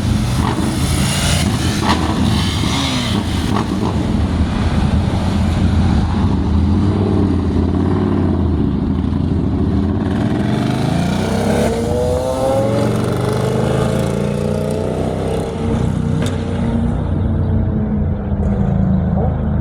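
Road traffic passing through an intersection: car and truck engines running, with vehicles accelerating away, one rising in pitch about halfway through.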